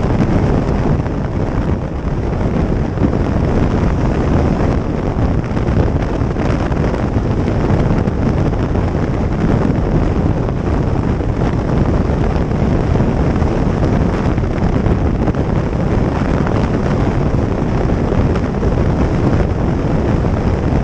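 Wind rushing over the microphone of a moving motorcycle: a loud, steady, unbroken rush.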